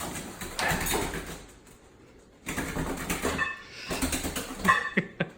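A large bird flapping its wings and scrambling, in two bouts of wing noise, with a few short calls in the second bout.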